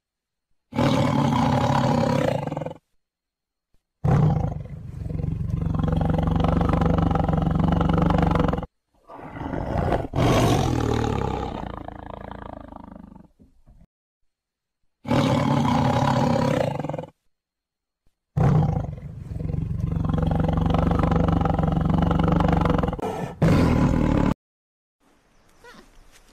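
Tiger roaring: about five long, deep roars, each lasting two to five seconds, separated by abrupt silent gaps.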